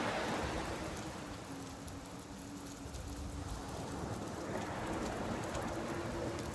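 Rain pattering on a beach while surf washes in, the wash swelling at the start and again about four and a half seconds in. A faint steady hum runs underneath, rising slightly in pitch near the end.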